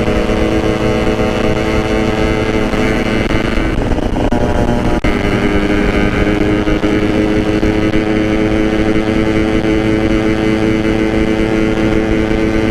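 Yamaha RX-King's single-cylinder two-stroke engine running under way at a steady, moderate cruising speed. About four to five seconds in, the note wavers briefly, then settles back to an even pitch.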